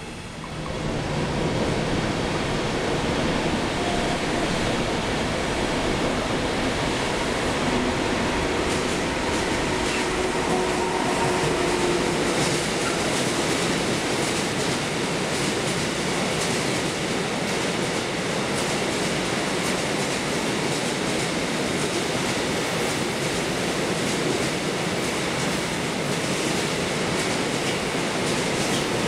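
A train passing on the tracks: a loud, steady rail rumble that swells up about a second in and runs on, with faint wheel squeal in the first part.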